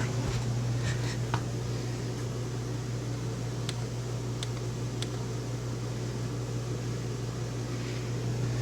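Steady low hum of a motorhome's air-conditioning unit running inside the cabin, with a few faint light clicks.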